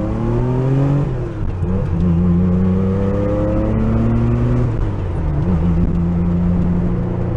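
Porsche 911 engine accelerating hard, its pitch climbing through the revs, dropping at a gear change about a second in, climbing again, then dropping at a second shift past the middle and settling to a steadier run.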